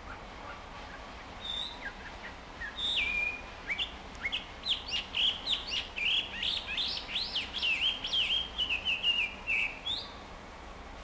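Chinese hwamei (Garrulax canorus) singing its practice song. A few separate whistles come first, then a fast, varied run of rising and falling clear whistles that stops about ten seconds in.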